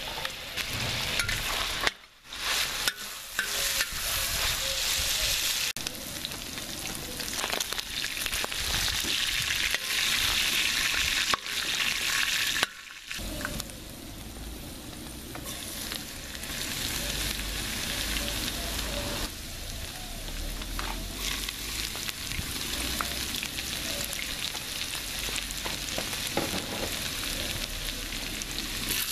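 Diced chorizo and pieces of pork and chicken sizzling in hot oil in a steel plow-disc pan (discada), a steady crackling hiss. It cuts out briefly about two seconds in and again about thirteen seconds in.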